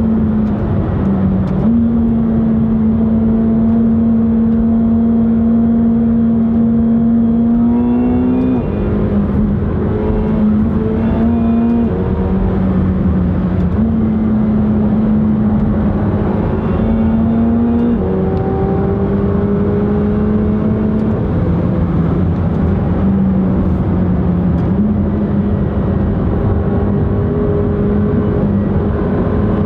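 McLaren 720S twin-turbo V8 heard from inside the cabin while driving on a winding road. The engine note holds a steady pitch for several seconds at a time, then steps up or down with gear changes and throttle, with brief rising revs a few times.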